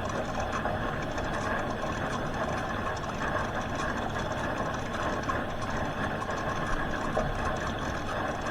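Hoover H-Wash 300 Plus washing machine running with a steady, even mechanical noise.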